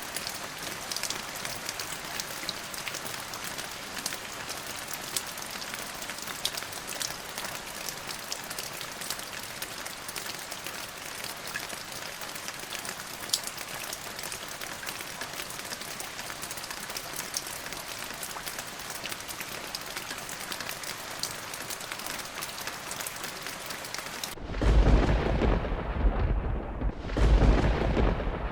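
Steady rain with a fine crackle of drops. About 24 seconds in, a loud, deep thunder rumble breaks in, swelling twice and drowning out the rain hiss.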